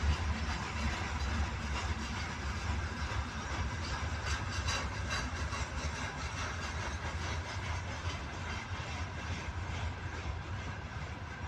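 Freight train wagons rolling past, a steady rumble of steel wheels on the rails with a short run of clicks about halfway through.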